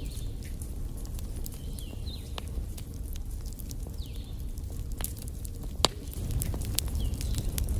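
Wood logs burning in a fireplace: a steady low rumble of flames with scattered crackles, and one sharper pop about six seconds in.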